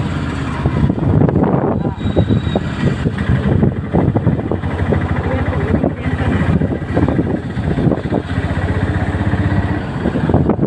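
Busy street traffic, with motorcycle and car engines running close by.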